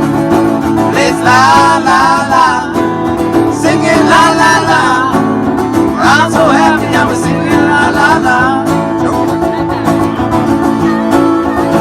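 Upbeat old-time string band playing an instrumental passage. Banjo and guitar pick steadily underneath, while a wavering lead melody comes in short phrases over the first part.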